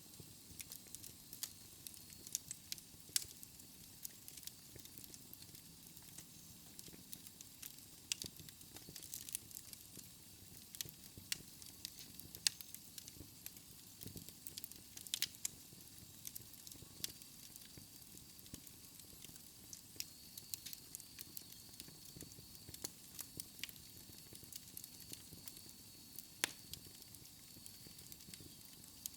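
Fire burning in a fireplace, crackling with irregular sharp pops and snaps over a soft, steady hiss.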